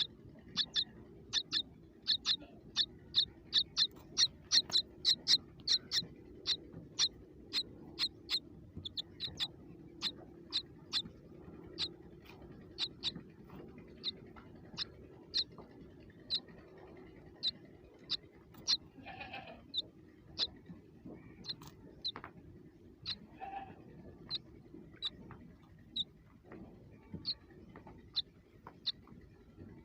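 Baby birds cheeping: a long series of short, high chirps, quick at first and spacing out after the first ten seconds, with a couple of softer, lower calls in the second half.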